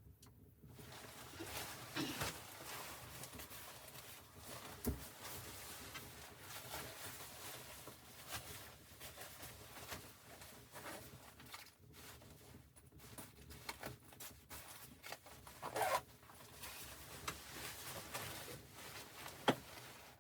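Continuous rustling and scraping, with a few sharper knocks scattered through.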